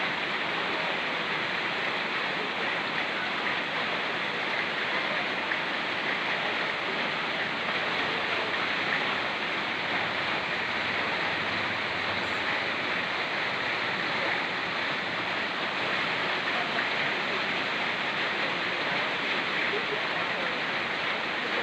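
Steady rushing of a fast-flowing mountain stream mixed with rain falling on forest, an even unbroken water noise with no pauses or distinct drops standing out.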